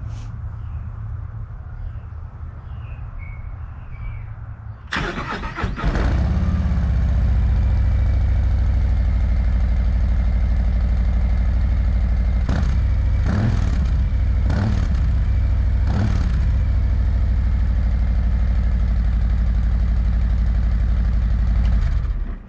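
Under a low rumble with faint chirps, a 2024 Harley-Davidson Road Glide's Milwaukee-Eight 117 V-twin on its stock head pipes and stock slip-on mufflers is cranked by the starter about five seconds in. It catches and idles, is blipped four times in quick succession, and is shut off just before the end.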